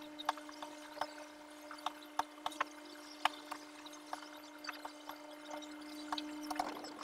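Raindrops dripping and tapping in an irregular scatter of sharp ticks over a steady low hum.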